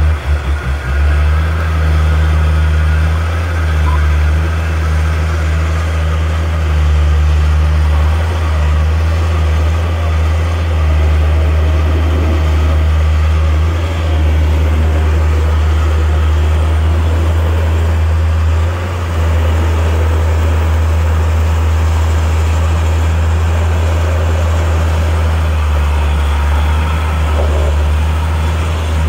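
Motor vehicle running, a loud steady low rumble that falters briefly at the start and dips for a moment about two-thirds of the way through.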